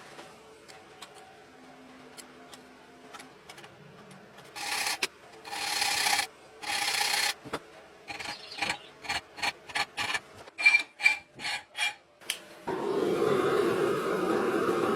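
Hand file rasping on the leaf-spring steel: three long strokes, then a run of quicker short strokes. About two seconds before the end a steady rushing noise starts.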